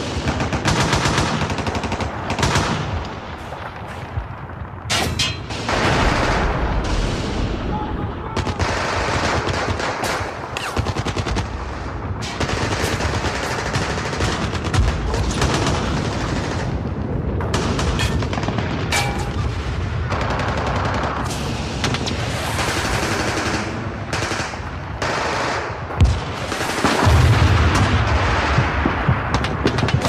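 Sustained gunfire: rapid automatic bursts mixed with single shots, dense and continuous, with a loud bang about 26 seconds in followed by a heavy low rumble near the end.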